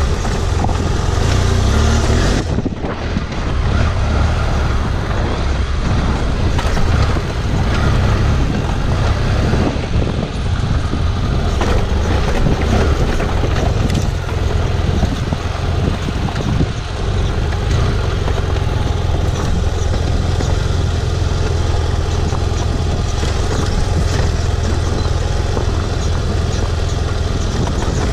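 BMW F800GS's parallel-twin engine running with a steady low rumble as the motorcycle rides down a rough dirt trail, with occasional knocks from the rocky ground.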